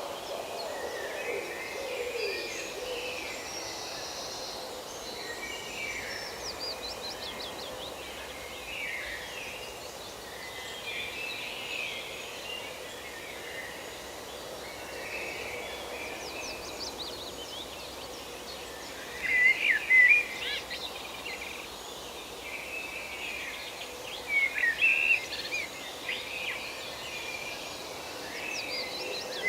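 Forest birdsong: several birds chirping and warbling on and off, with louder bursts of rapid chirps about two-thirds of the way in and again near the end. An owl's low hooting trails off in the first few seconds.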